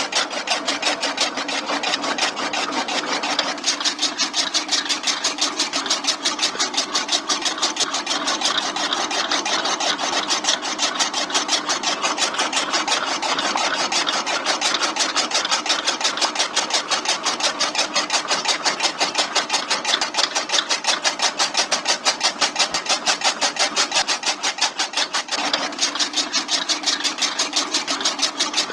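Small electric motor of a homemade model chaff cutter running steadily, with a fast even rattle that throbs a few times a second.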